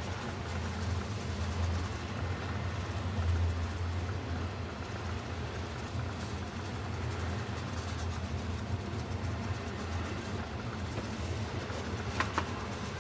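Steady low hum over an even background noise, with a light click near the end.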